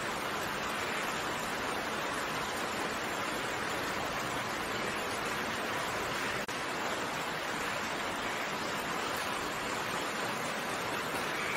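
Steady rainfall, an even hiss of falling raindrops, with a momentary dropout about halfway through.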